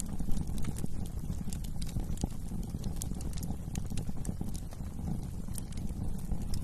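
Wood fire burning in a fireplace: irregular sharp crackles and pops over a steady low rumble of the flames, with a couple of louder pops about half a second in.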